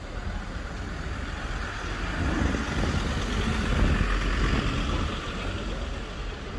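A motor vehicle passing along the street: engine and tyre noise growing louder to a peak about four seconds in, then fading.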